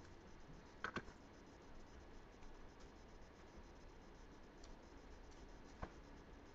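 Near silence: room tone with a few faint short clicks, about a second in and again near the end.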